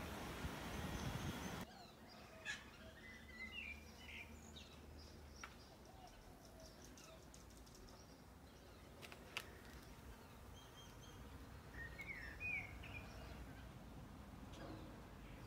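Faint outdoor ambience with small birds chirping a few times. It opens with a steady rush of noise that cuts off abruptly about two seconds in.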